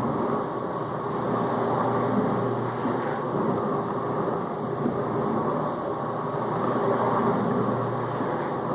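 Whirlpool dishwasher in its final rinse with rinse aid added: the circulation pump runs with a steady low hum while water sprays around the tub in an even wash.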